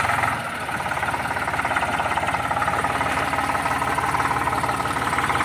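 Eicher 485 tractor's diesel engine running steadily, with a rapid, even beat of firing pulses.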